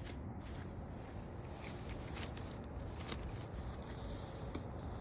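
Soft rustling and handling noise with a few faint clicks and scrapes over a low, uneven rumble.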